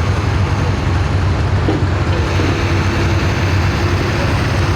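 Diesel pulling tractor's engine running loud and steady, a deep, even drone with no rise or fall in pitch.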